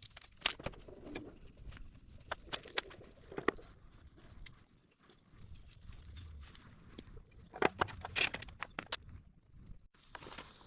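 Scattered light clicks and knocks of hand tools and metal parts during motorcycle swingarm reassembly, with a cluster of sharper knocks near the end, over a faint steady high-pitched hum.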